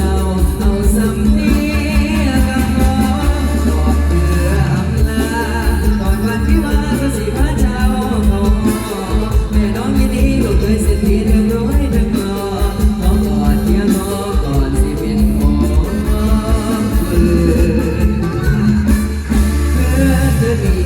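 Live mor lam band music with a steady, heavy bass and drum beat and a melody over it, voices singing at times.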